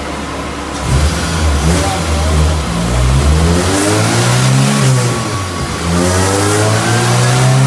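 Acura Integra GSR's B18C 1.8-litre four-cylinder engine revving: its pitch climbs to a peak, drops back, then climbs again near the end.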